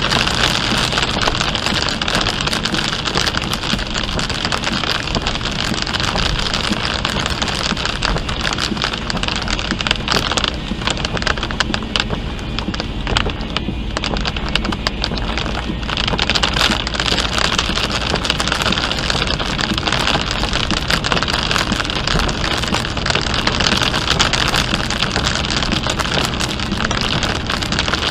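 Heavy rain pelting a car on the highway, heard from inside, over steady road and engine noise. The rain noise eases for a few seconds midway, then comes back.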